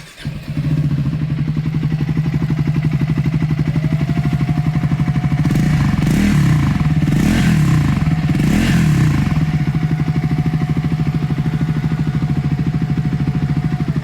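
Triumph Scrambler 400 X's single-cylinder engine starting up and idling through its exhaust. About six seconds in it is revved three times in quick succession, each rev rising and falling, before settling back to a steady idle.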